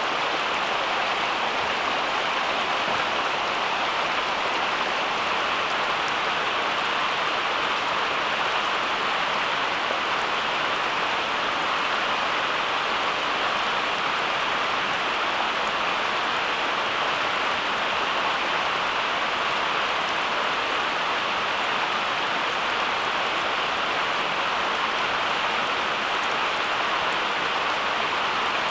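Steady, even hiss like falling rain, unchanging throughout.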